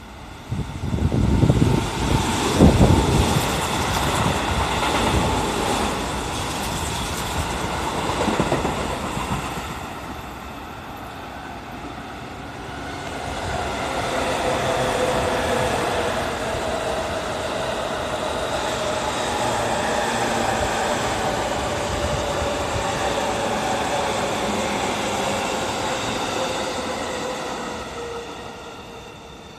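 A red Keikyu train passes through the station, its wheels clattering loudly over the rails for about nine seconds. From about thirteen seconds in, an orange-and-green JR suburban electric train runs by on the adjacent tracks as a long steady rumble with a motor hum, fading near the end.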